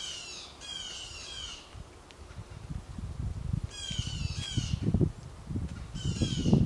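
A bird calling in three bouts of rapid, high, downslurred notes, near the start, in the middle and near the end. Low thumps and rumbles come in the second half, loudest near the end.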